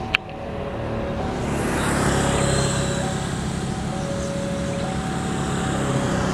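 Level-crossing warning signal sounding a two-tone alternating chime, with a sharp click just after the start. From about a second and a half in, the rumble and rail noise of an approaching passenger train rise beneath it and hold.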